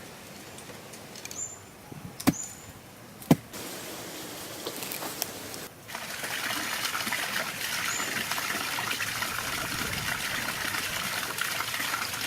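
Water trickling and splashing over a small built waterfall, with two sharp knocks about two and three seconds in. A little before the halfway point the flow becomes louder and steady.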